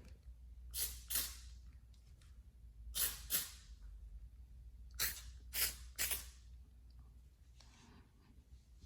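Aerosol can of water-based fabric dye spraying in seven short hissing bursts, two quick pairs and then three in a row, laying down a small test patch.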